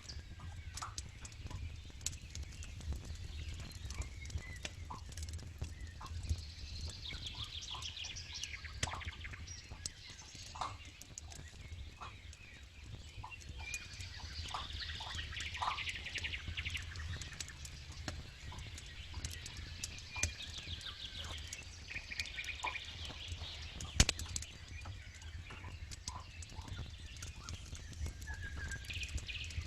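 Campfire burning with irregular crackles and snaps, one sharp pop about 24 seconds in, while birds chirp and trill in the background.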